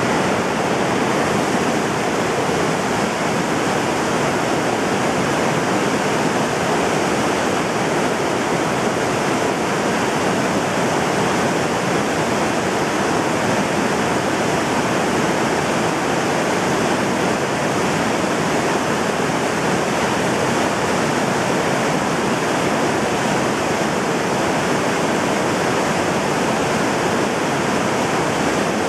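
Mountain stream in spate, rushing and churning loudly and steadily over rocks, its flow swollen by recent heavy rain.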